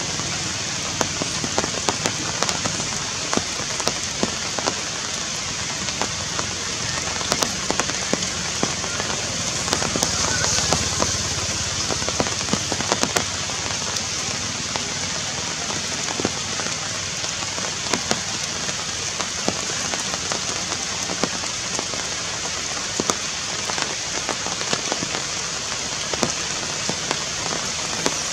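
Steady rain falling on forest leaves, with many separate drops hitting.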